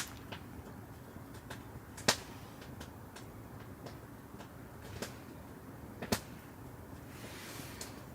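Firewood burning, crackling with irregular small snaps and a few sharp, louder pops, with a short hiss near the end.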